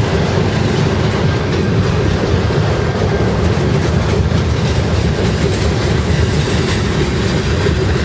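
Freight cars (autoracks, then covered hoppers) rolling past at close range: a steady loud rumble of steel wheels on the rails with a clickety-clack of wheels over the track.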